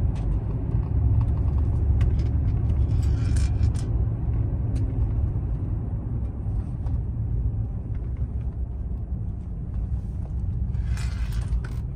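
Truck driving at road speed: a steady low rumble of engine and road noise, with a brief hiss about three seconds in and again near the end.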